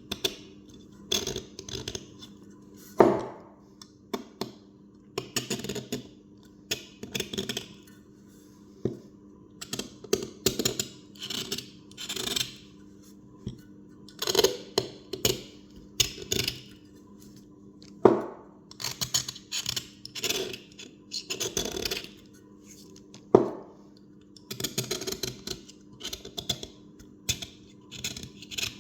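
A blade scraping a ring of old foam-surround adhesive off a car speaker, in short, irregular scratchy strokes with a few sharp clicks or taps.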